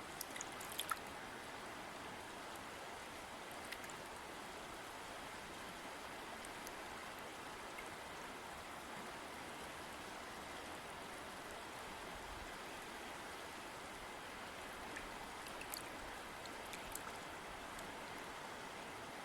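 River water flowing steadily, with a few brief, sharper ticks of water near the start and again near the end.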